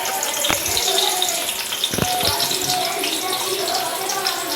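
Sliced onions sizzling and crackling as they fry in hot oil with whole spices in a pot. There are two sharp knocks, about half a second and two seconds in.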